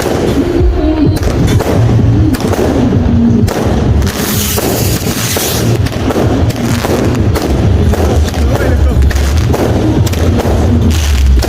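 Fireworks and firecrackers going off in quick succession, a dense run of bangs over a low rumble, with a hissing burst about four seconds in.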